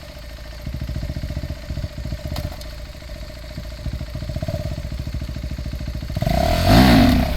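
KTM RC 390's single-cylinder motorcycle engine running at low revs with a fast, even firing pulse, then revved hard about six seconds in, the pitch climbing and falling back.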